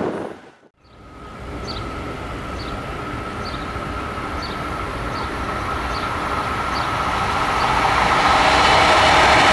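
A passenger train approaching on the line, its rumble and a steady high hum from the rails building gradually louder. A faint short high chirp repeats about once a second over it.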